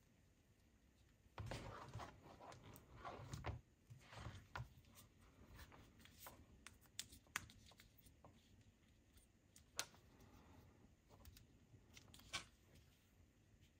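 Faint rustling of packaging being handled, with a few sharp light clicks spread through.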